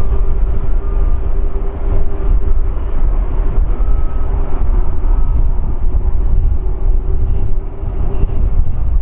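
Jet airliner engines running, a heavy low rumble with a steady whine over it.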